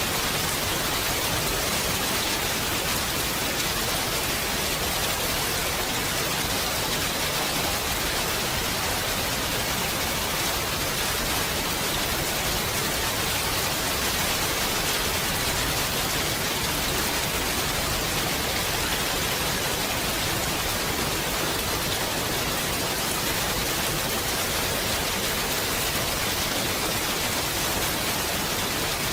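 Steady heavy rain falling, a dense, even hiss with no thunder or separate drops standing out.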